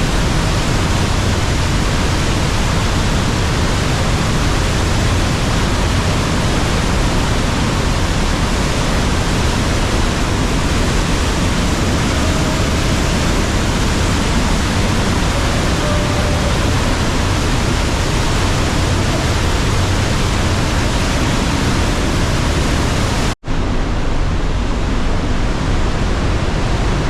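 Trümmelbach glacier waterfall: a loud, steady rush of water, with a split-second break about 23 seconds in.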